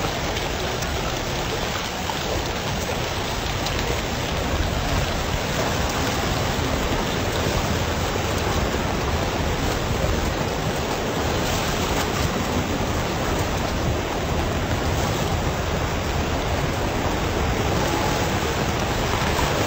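Heavy rain falling onto flooded streets: a steady, dense hiss that keeps an even level throughout.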